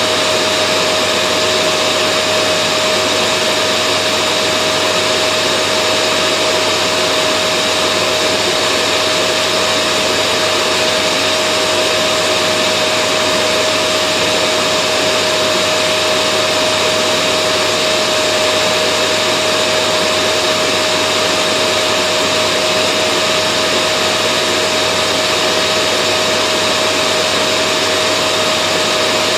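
Vacuum cleaner running steadily, an unbroken rush of air with a constant whining tone from its motor; nothing starts, stops or changes.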